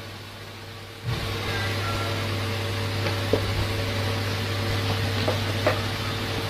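Steady low machine-like hum with a few steady tones above it. It jumps up abruptly about a second in, and a few faint short sounds come over it later.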